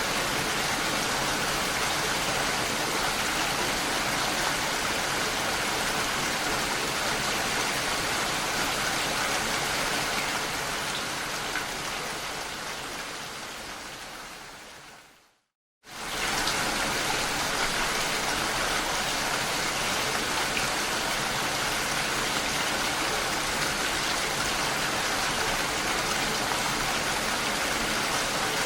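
Steady rain falling. About halfway through it fades out over several seconds to a moment of silence, then starts again suddenly at full level, like a recording being looped.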